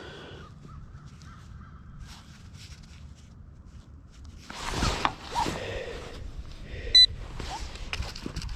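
Metal detecting gear: faint handling and scraping noise around a target, then one short, loud, high electronic beep from a metal detector or pinpointer about seven seconds in.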